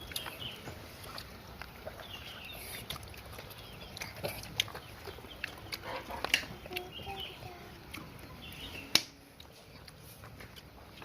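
Chickens clucking softly in short calls, among scattered sharp clicks and knocks; the loudest knock comes about nine seconds in.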